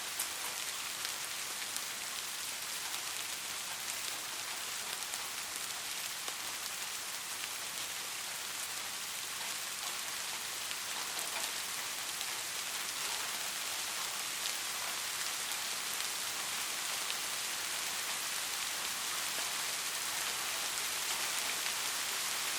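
Steady rain falling on a surface: a high, even hiss with a dense patter of individual drops, growing slightly louder toward the end. No thunder.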